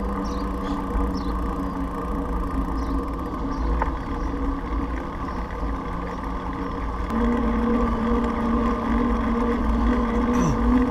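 Wind rumbling on the microphone of a moving bicycle rider, with a steady mechanical hum under it whose pitch steps up about seven seconds in.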